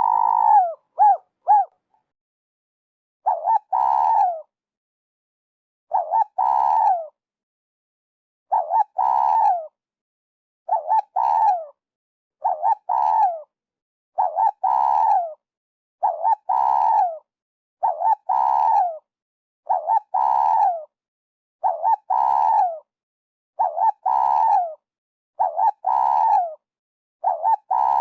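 Spotted dove cooing: a short phrase of coos that fall in pitch at the end, repeated about every two seconds, with silence between phrases. It starts with a few quick short notes, pauses, then settles into the steady run of phrases from about three seconds in.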